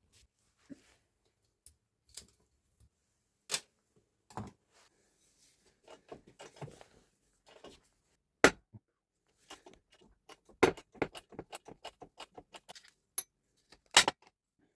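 Metal parts and hand tools clinking and knocking during bench work on a demolition hammer: scattered sharp clicks, three louder knocks, and a quick run of about five clicks a second a little past the middle.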